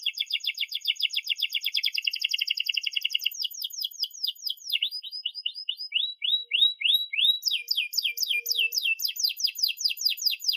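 Domestic canary singing a long, unbroken song of rapid trills: a fast run of repeated notes, then phrases of falling and then rising sweeps, each phrase changing every few seconds.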